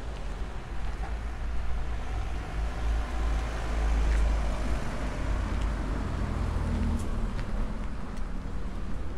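Street traffic: a car passing, loudest about four seconds in, over a constant low rumble.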